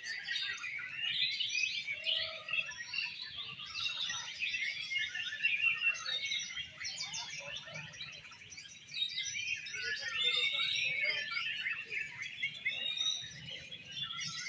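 Oriental magpie-robins (kacer) singing: a dense, unbroken stream of fast, varied whistles, chirps and trills.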